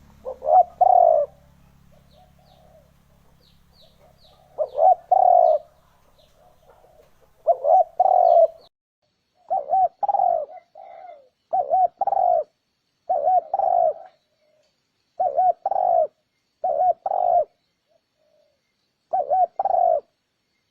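Spotted dove cooing: about nine short multi-note coo phrases, one every two seconds or so. Faint high chirps from another bird sound between the first coos.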